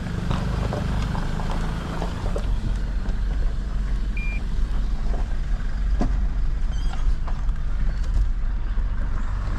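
A motor vehicle's engine and road noise make a steady low rumble as it drives, with a few faint clicks and a short high beep about four seconds in.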